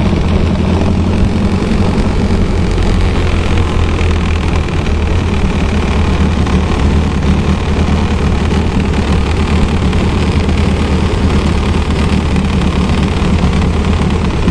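Ford Model T four-cylinder engine with a Roof 16-valve overhead-valve head and two Holley carburettors, running steadily with the car under way, heard from its open cockpit.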